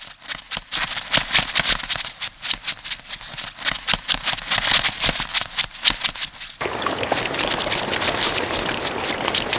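Crab sound effect: rapid, irregular dry clicking and rattling. About two-thirds of the way through it turns into a denser hiss with the clicks still running through it.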